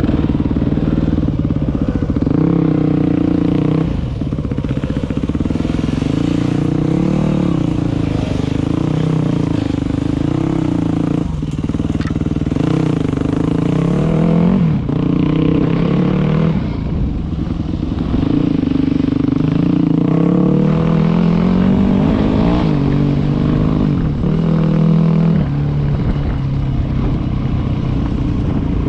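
Dirt bike engine under way, its revs rising and falling again and again as the throttle is worked, with a few sharp knocks from the bike over rough ground.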